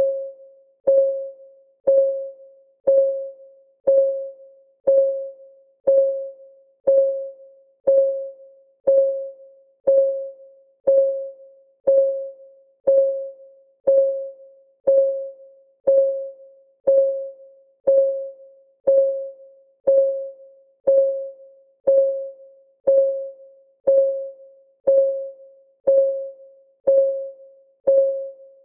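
Clock-ticking sound of a countdown timer: one tick a second, each a sharp click with a short mid-pitched ring that dies away before the next.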